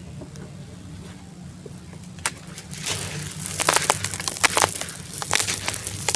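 Dried sand-cement chunk crumbling: one sharp crack about two seconds in, then a dense run of crackles and snaps.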